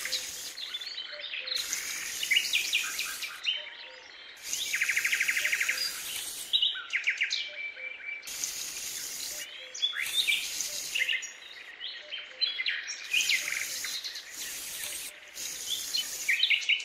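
Small birds chirping and trilling, mixed with repeated scratchy swishes about a second long as a miniature hand rake is drawn through fine sand.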